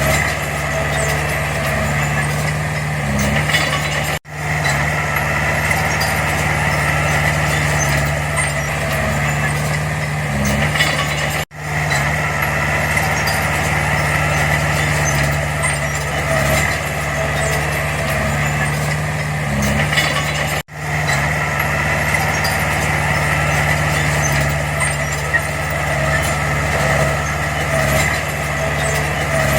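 Heavy diesel earthmoving machinery running steadily under work, with a constant low engine drone. The sound cuts out for an instant three times and picks straight back up.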